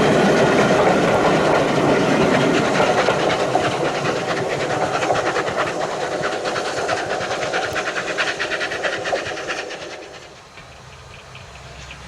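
Steam-hauled heritage train passing, its carriage wheels clicking rapidly over the rail joints. The noise fades and drops away about ten seconds in as the train moves off.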